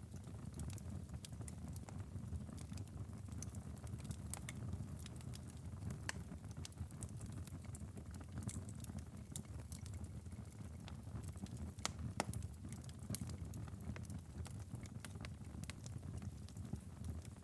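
Wood fire crackling in a fireplace: scattered sharp snaps and pops over a steady low rumble of burning, with a louder pop about twelve seconds in.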